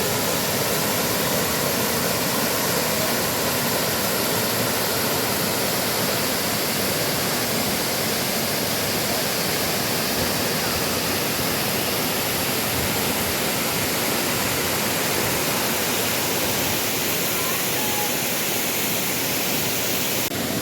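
A waterfall's steady rushing water, a dense even roar of falling and splashing water.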